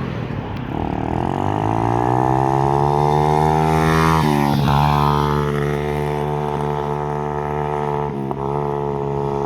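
Apollo 125cc pit bike's single-cylinder four-stroke engine under way. The revs climb for about four seconds, drop sharply as it shifts up a gear, then hold steady, with a brief dip in revs near the end.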